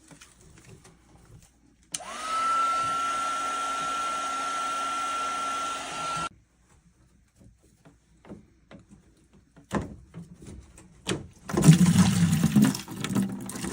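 Heat gun switched on, its fan spinning up quickly to a steady whine over rushing air, running about four seconds and then switched off; it is used to soften PEX A tubing. Scattered clicks follow, then louder knocks and clatter of handling near the end.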